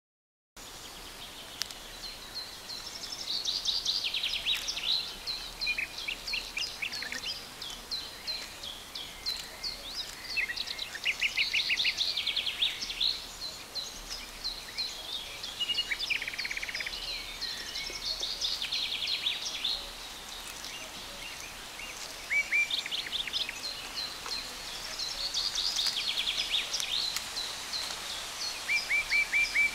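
Several songbirds singing and calling together: many quick high chirps and short rapid trills overlapping throughout, over a faint steady hiss.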